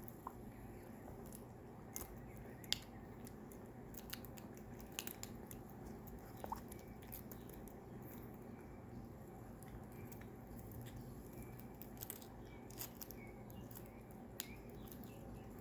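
African grey parrot biting and chewing a plastic drinking straw: scattered sharp clicks and crunches at irregular intervals, over a low steady hum.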